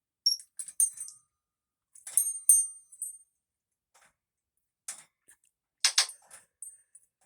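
Pet talking bird chirping and whistling in short, high-pitched bursts, in two clusters in the first half, then a few harsher, clicking squawks and more brief chirps near the end.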